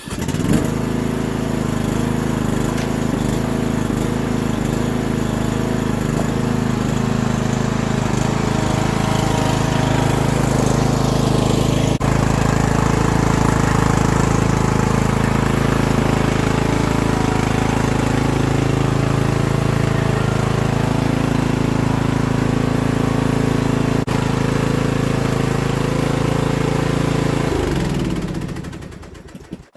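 Battery-started lawn mower's small engine catching at once and running steadily for almost half a minute, then shut off near the end, its pitch falling as it winds down.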